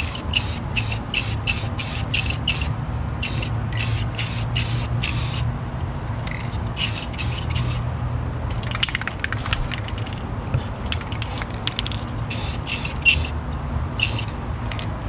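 Rust-Oleum aerosol spray paint can spraying in quick short hissing bursts, about three a second, in runs with pauses between them. A steady low hum sits underneath, and there is a spell of rapid light clicking in the middle.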